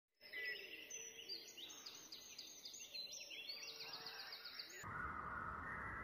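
Several songbirds chirping and trilling over one another in quick, high-pitched phrases. About five seconds in, the sound cuts abruptly to a different recording with a louder background hiss and lower-pitched bird calls.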